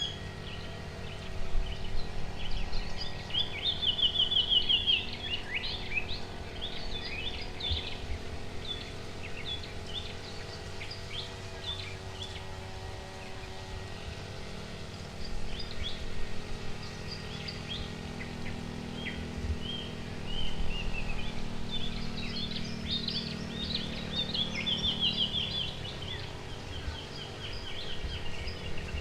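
Several wild birds chirping and calling, with short rapid trills, under a steady low hum that stops near the end.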